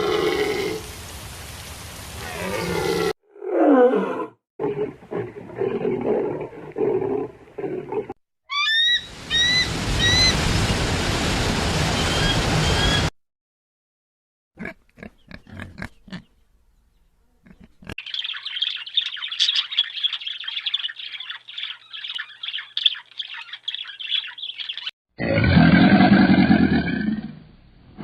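A string of short animal sound clips cut one after another, with abrupt changes and a brief gap in the middle. Near the end comes a loud, low, pulsing call.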